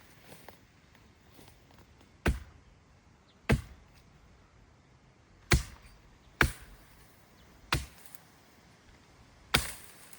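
Six sharp, separate blows of a tool striking wood, irregularly spaced a second or two apart.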